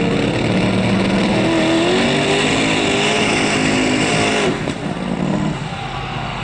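Light modified pulling tractor's engine running hard at high revs under load, its pitch climbing. About four and a half seconds in, the sound drops off abruptly as the throttle comes back.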